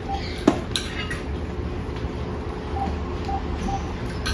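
A few sharp clinks of cutlery against dishes in the first second or so, the loudest about half a second in, followed by a run of short, faint, high peeps over a steady low hum.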